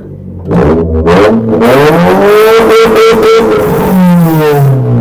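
Suzuki Liana 1.6's four-cylinder engine revved, heard at the exhaust tip. The revs climb from about half a second in, hold high for a couple of seconds, then fall away near the end.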